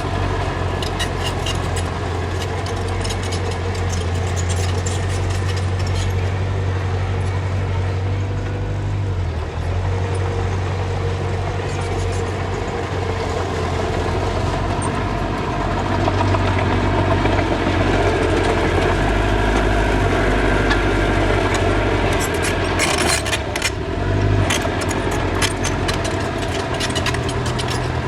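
Diesel engine of earthmoving machinery running steadily, working harder and louder for several seconds past the middle, with scattered sharp clicks and clanks over it.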